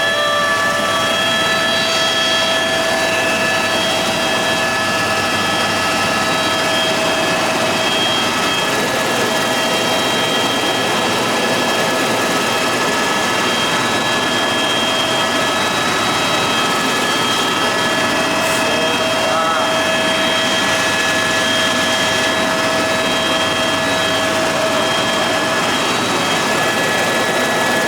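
Tour helicopter in flight, heard from inside the cabin: a steady, loud rush of engine and rotor noise with a constant high whine.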